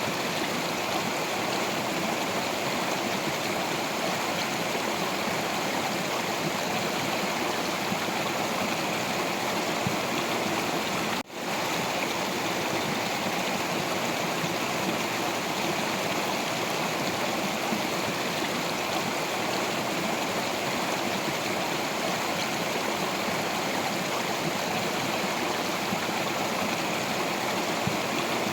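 Stream of water flowing over rocks: a steady rushing, babbling wash of water. It briefly drops out for a moment about eleven seconds in.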